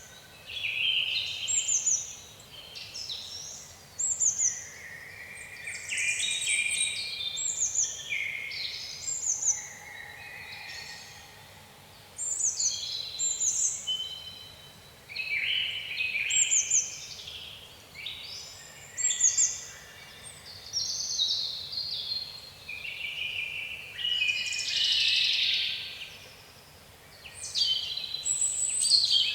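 Songbirds singing: a steady run of short, varied phrases of high chirped and whistled notes, many sliding downward, one new phrase every second or two.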